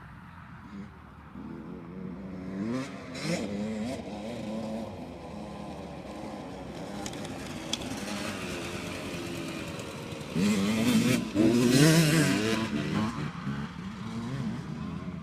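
Motocross bike engines revving hard and dropping back through gear changes as riders go round the track, loudest for a few seconds about ten seconds in.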